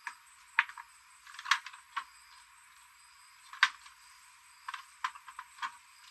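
Hard objects being handled during repair work: about ten irregular sharp clicks and clinks, a few of them louder knocks, sounding thin because the bass is cut away.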